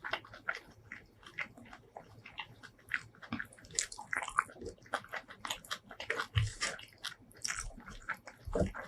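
Close-miked eating of spicy shrimp curry with rice: wet chewing and lip smacks in quick, irregular clicks, with a couple of dull low thumps in the second half.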